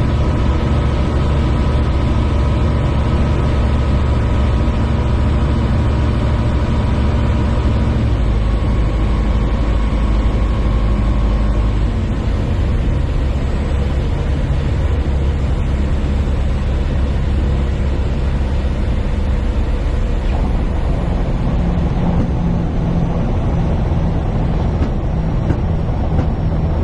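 Light aircraft's piston engine and propeller droning steadily. The engine note changes about eight seconds in and again around twenty-one seconds in.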